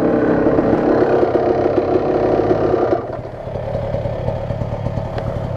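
Dirt bike engine running under throttle, then dropping back to a lower, lighter running about three seconds in as the throttle eases off.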